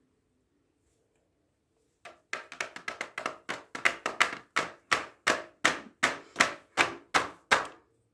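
A rapid run of sharp taps or knocks starting about two seconds in, quick and uneven at first, then settling to about three a second and getting louder before stopping near the end.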